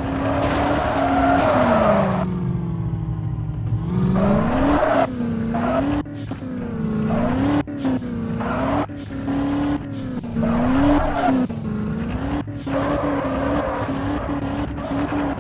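Race car engine revving hard, its pitch dipping and climbing again and again, with tyre squeal. About two seconds in the engine note drops low and softer for a couple of seconds before climbing back up.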